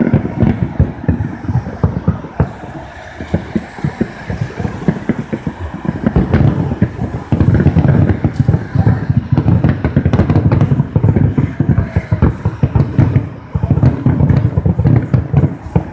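Fireworks going off in a rapid, continuous barrage of booms and crackles. They ease off a little a few seconds in, then come thickest in the second half.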